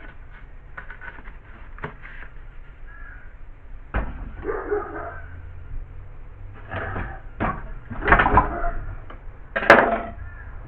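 Rustling and knocking as materials are handled, with a sharp click near the end.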